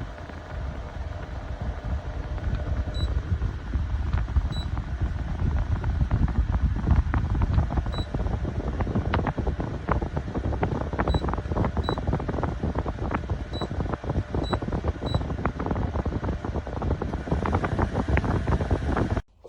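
Bosch Cool 2000 portable air conditioner running, its fan airflow giving a steady low rumbling rush, with many small clicks and several short high beeps. The sound cuts off suddenly near the end.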